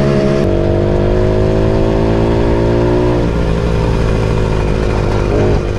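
Moped engine running under way, its note climbing slowly as it accelerates, then giving way to a rougher, unsteady sound about three seconds in.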